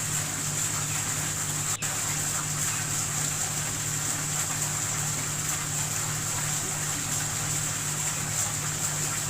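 Water falling and splashing steadily in a small indoor decorative waterfall, over a steady low hum, with a brief break about two seconds in.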